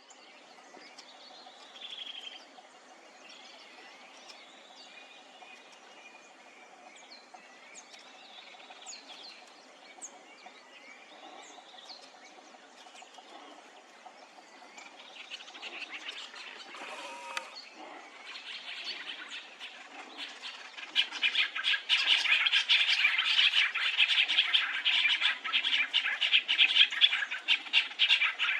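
Small birds calling: scattered short chirps and whistles at first, then, about three-quarters of the way in, a loud, dense, fast chattering.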